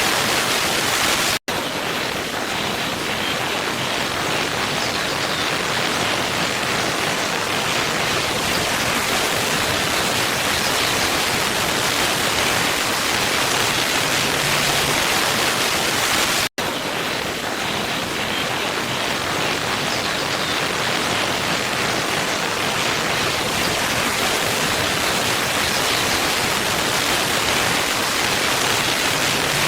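Waterfall rushing steadily. The sound cuts out for an instant twice, about fifteen seconds apart, where the recording loops.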